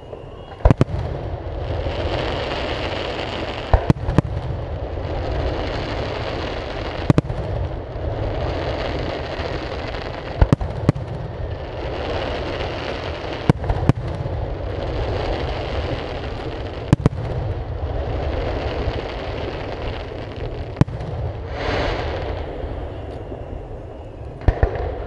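Aerial fireworks shells bursting with sharp bangs every few seconds, some in quick pairs, over a continuous rushing noise between the bangs.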